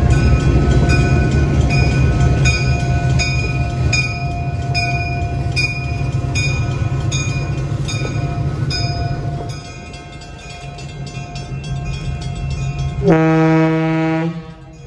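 A train locomotive running with a low rumble while its bell rings a little more than once a second; the rumble and bell fade about two-thirds of the way through. Near the end comes one short blast of the train horn.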